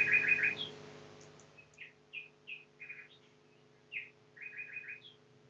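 Small songbirds chirping: short high notes, some in quick runs of four, scattered through. A faint steady low hum underneath fades away about a second and a half in.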